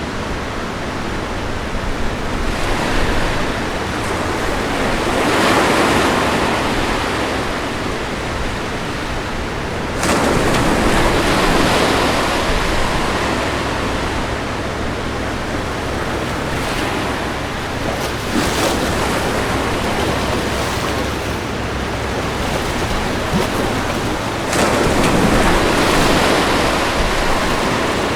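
Ocean waves washing onto a shore: a continuous rush of surf that swells louder four times as larger waves break, one of them starting abruptly.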